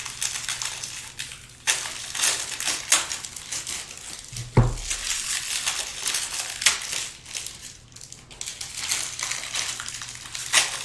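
Card-pack wrappers crinkling and rustling as packs are handled and ripped open, in a run of short crackling strokes, with one dull thump about halfway through.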